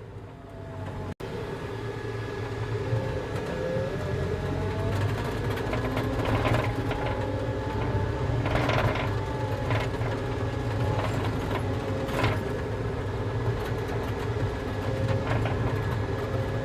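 Volvo single-arm tracked skid steer driving, its diesel engine running steadily under a whine that wavers in pitch, with occasional clanks from the machine and its tracks.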